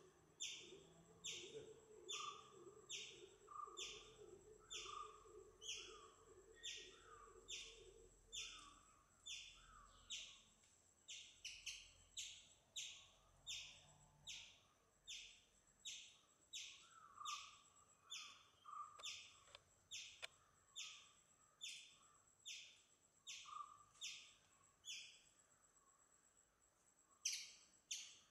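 Birds calling in the background: one bird repeats a short, high, falling note about three times every two seconds, with softer, lower notes from another bird between them.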